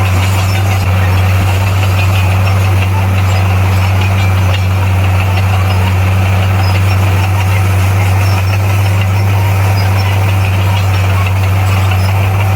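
Bulldozer's diesel engine running steadily at constant speed: a loud, even low drone with no change in pitch.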